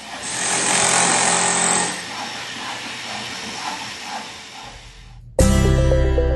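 A loud noisy hiss without a clear rhythm, strongest in the first two seconds and fading somewhat after. Loud music starts abruptly near the end.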